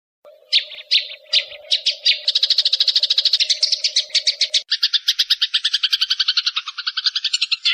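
Eurasian tree sparrow's fighting call: a few separate sharp chirps that quickly speed up into a fast, even chatter of about ten notes a second. A steady low hum sits under the first half and stops about two-thirds of the way through, where the chatter goes on fuller and lower.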